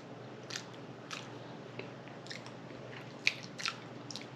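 A person chewing soft food with open-mouthed lip smacks: scattered short wet clicks, a handful in a few seconds.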